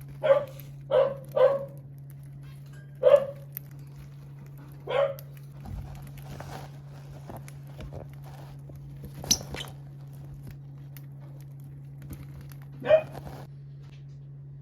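A dog barking in short, single barks, about seven spread unevenly, three in the first second and a half and then one every few seconds. A steady low hum runs underneath.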